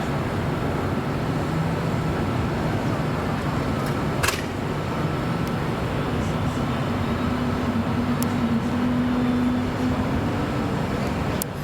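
Jet airliner engine noise: a steady rumble with a low hum that rises slightly in pitch about halfway through. A sharp click about four seconds in.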